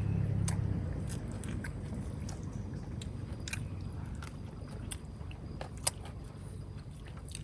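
A person chewing and biting food close to the microphone, with irregular small crunches and clicks.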